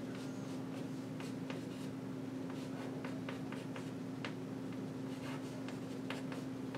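Handwriting strokes: short irregular scratches and taps of a writing tool, over a steady low hum.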